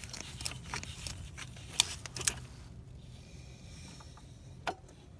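Metal hand tool scraping and picking at carbon deposits caked on an engine's intake valves. It makes a run of sharp scrapes and clicks for the first two and a half seconds, then goes quieter with one more click near the end.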